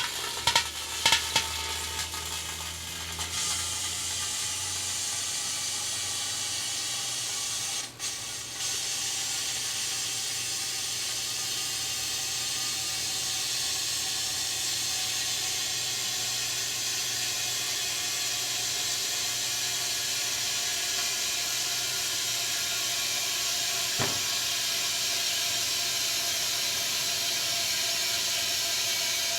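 Microwave oven running with an aerosol can of hair dye inside: a steady hiss over a low hum, with a few clicks in the first two seconds and one sharp click about 24 seconds in.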